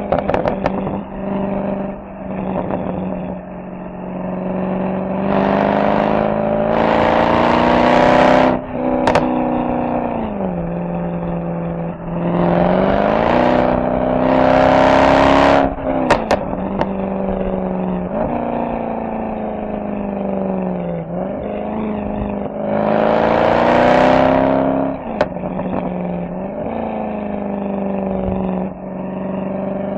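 Mercedes-AMG SL63's V8 exhaust under three hard accelerations, the pitch rising for a few seconds each time before cutting off sharply. A few short pops follow as the throttle closes, and in between the engine settles back to a lower, steady run.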